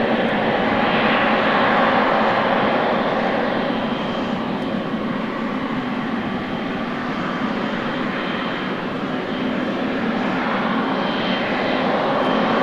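Jet engines of a Boeing 777F freighter running with a steady rush and a faint high whine, easing a little partway through and building again near the end.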